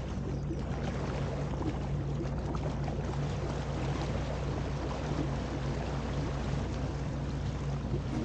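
Sea-Doo GTI 130 jet ski engine running at a steady pitch, with rushing water from the hull and jet.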